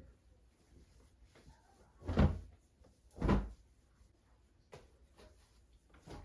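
Furniture doors or drawers being shut: two dull knocks about a second apart, then a few faint clicks.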